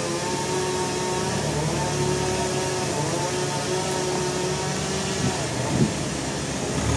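Sawmill machinery running steadily, its engine pitch drifting slightly up and down, with two brief knocks near the end.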